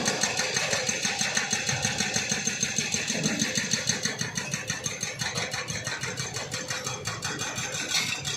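Small engine running steadily at a low idle, with an even beat of about five or six pulses a second.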